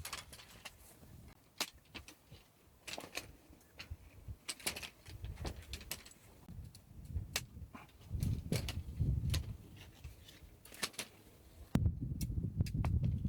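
Irregular light clicks and knocks, like gear being handled. A low rumble sets in near the end.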